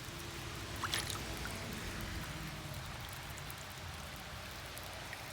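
Steady rain falling, an even hiss with one faint click about a second in.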